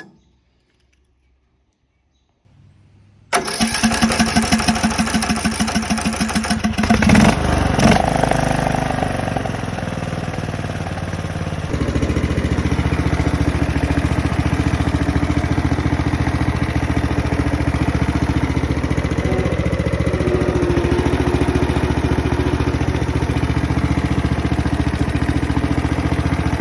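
Riding lawn tractor's small engine being cranked by the starter, catching about seven seconds in and then running steadily, a little louder from about twelve seconds in.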